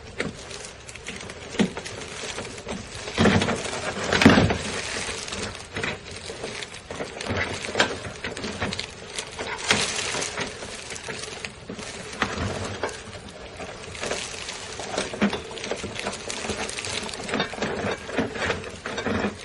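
A half-inch drill boring holes into a steel chrome motorcycle muffler, the bit scraping and grinding unevenly against the metal. The holes are meant to relieve the muffler's excess back-pressure.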